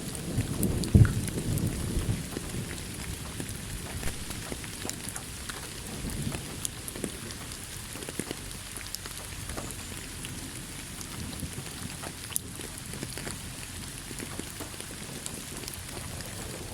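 Steady rain with scattered drop taps, over the low tail of a thunder rumble that fades out within the first couple of seconds.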